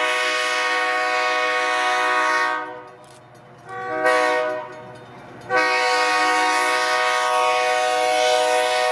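Steam locomotive's chime whistle sounding a crossing signal: a long blast, a short one, then another long blast held on.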